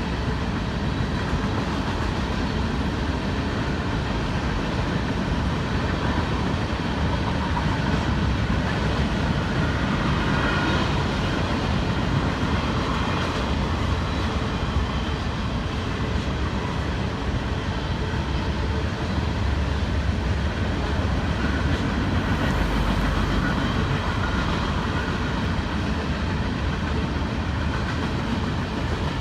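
CSX freight train rolling past: a steady rumble with the clickety-clack of wheels over the rail joints.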